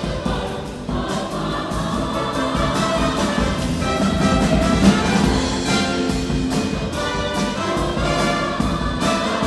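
Choir singing with instrumental accompaniment over a steady beat.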